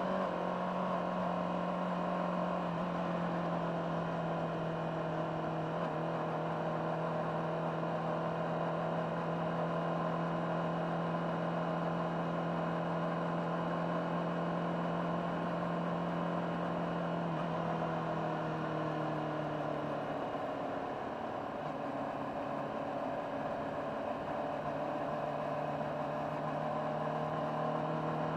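Honda CBR600RR's inline-four engine through its stock exhaust, recorded on board, running at a steady cruise. It eases off slightly about two-thirds of the way in, then holds steady again.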